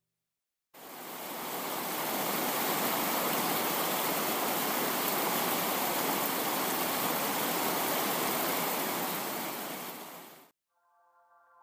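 Steady, dense hiss of heavy rainfall that starts abruptly under a second in and cuts off near the end. Soft, sustained synthesizer music begins just after it stops.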